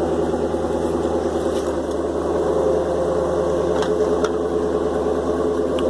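2015 Dodge Charger R/T Road & Track's 5.7-litre HEMI V8 idling steadily, still warming up after a cold start, with a couple of light clicks about four seconds in.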